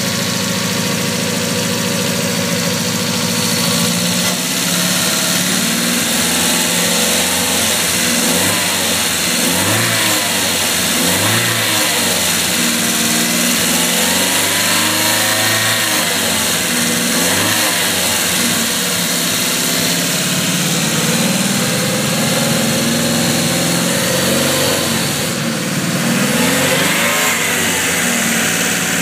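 Peugeot four-cylinder engine running at idle, its revs rising and falling several times in the middle and once more near the end as the throttle is blipped.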